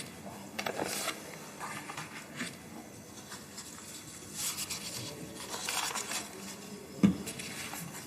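Paper rustling as sheets of a report are handled, in a few soft spells, with a single sharp thump about seven seconds in.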